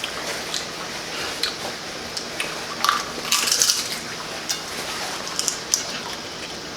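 Tortilla-chip nachos being bitten and chewed: irregular crisp crunches, with the loudest run of crunching a little past the middle.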